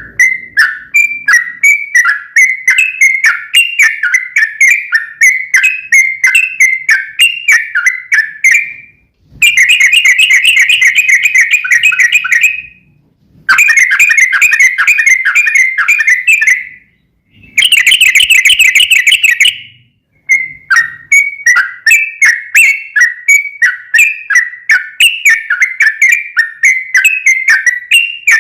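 Yellow-vented bulbul song: a string of loud, clear whistled notes at about three a second, broken by three long, rapid trilled runs of chatter in the middle before the note-by-note phrases return.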